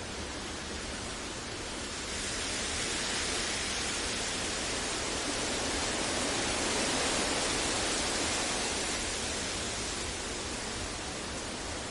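Generated deep noise, a steady even hiss with no tones or events. From about two seconds in it swells a little louder and brighter, peaks midway, then eases back.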